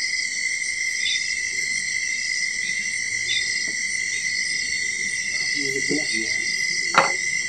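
A steady night-time insect chorus in the forest: a constant high-pitched trill with a denser, shriller buzzing layered above it. There is a single sharp click about seven seconds in.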